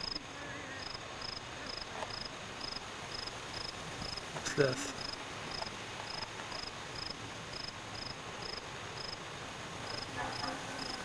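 A cricket chirping steadily, a short high chirp about twice a second.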